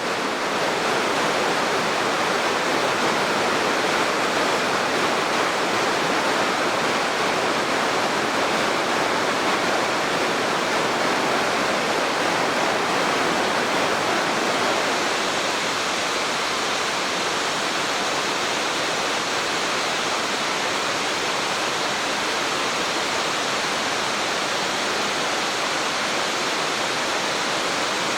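Steady rushing of falling water from a waterfall or gorge stream. It holds at one level and eases slightly about halfway through.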